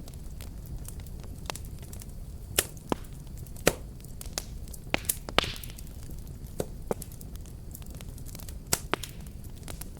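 Crackling fireplace fire: a steady low rumble of burning with irregular sharp pops and snaps, a few of them much louder than the rest.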